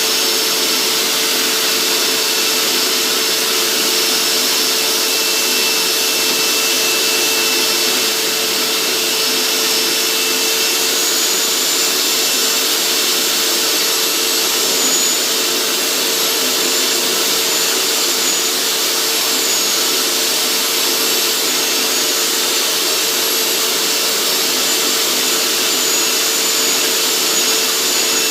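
Hoover SteamVac carpet cleaner running steadily, its suction motor giving a loud, even rush with a steady hum and a faint high whine, while it sprays and scrubs with its powered nozzle.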